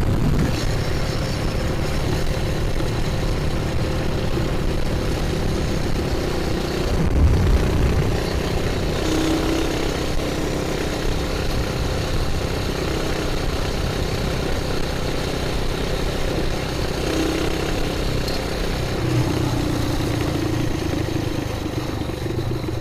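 Coleman BT200X mini bike's straight-piped single-cylinder engine running under throttle while riding, heard through a microphone inside the rider's helmet. The engine note shifts in pitch a few times, with a brief louder surge about seven seconds in.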